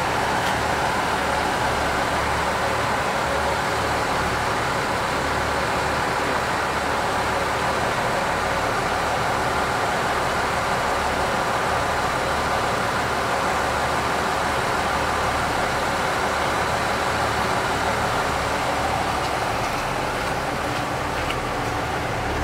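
Steady drone of a KiHa 85 diesel railcar idling its engines while standing at the platform, held at a red signal.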